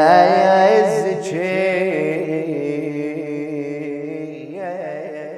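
Male voice singing one long, wavering, wordless note in a sad Shia elegy, over a steady hummed vocal drone, fading slowly toward the end.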